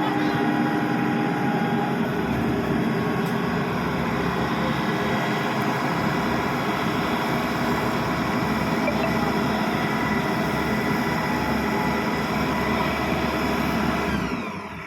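Bimo Maxxi 102 combine harvester running steadily. Its sound drops sharply near the end.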